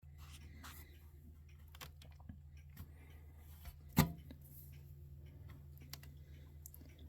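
Steady low hum with scattered light clicks and one sharper knock about four seconds in.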